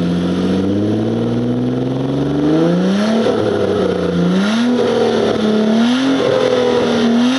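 Car engine and exhaust running loudly, the engine note climbing, dropping back and climbing again several times. The owner suspects a faulty exhaust as the cause of the noise.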